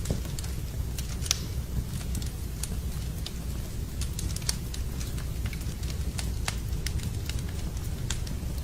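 Campfire of burning wood crackling, with frequent irregular sharp pops over a steady low rumble.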